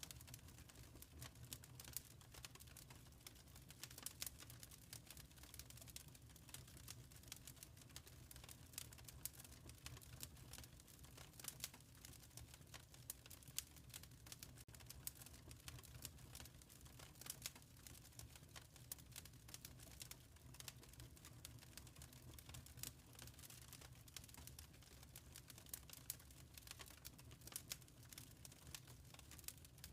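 Faint wood fire crackling in a fireplace: a dense scatter of small sharp pops and snaps over a low steady rumble.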